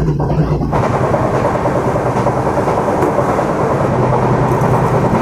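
Passenger train in motion: a loud, steady rumble and rattle of the coaches running on the track, which comes in abruptly just under a second in, replacing a lower steady hum.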